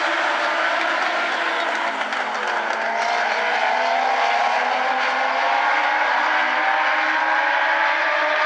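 A field of Legends race cars running at speed around the oval, several high-revving motorcycle-engined cars overlapping. Their engine pitches glide slowly upward as they accelerate.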